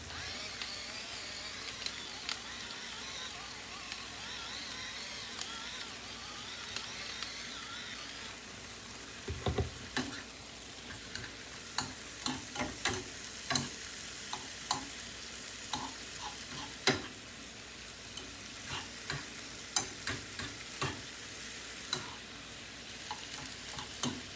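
Seasoned chicken sizzling as it sautés in a frying pan, a steady hiss. From about a third of the way in, a utensil knocks and scrapes against the pan in irregular clicks as the meat is stirred.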